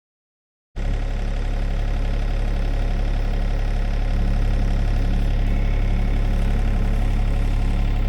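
Sany 35 mini excavator's diesel engine running steadily, starting abruptly under a second in and holding an even, low-pitched sound.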